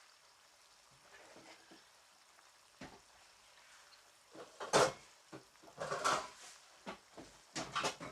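A cooking utensil stirring and scraping in a pan of chicken in sauce, in several short bouts starting about halfway through, over a faint simmer.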